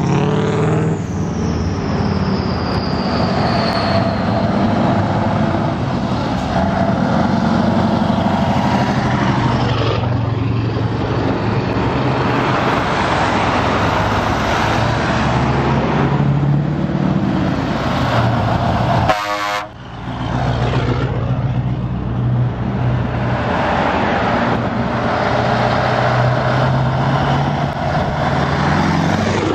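Heavy Scania trucks driving past one after another, their diesel engines running in a steady low drone, with horn toots among them. The sound breaks off sharply for a moment about two-thirds of the way through, then picks up again.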